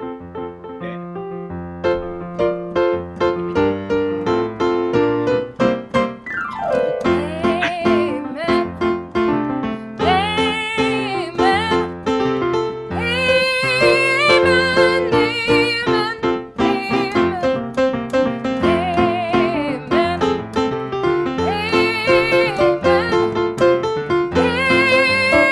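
Piano playing a slow piece. About six seconds in, a held melody line with vibrato enters over the chords.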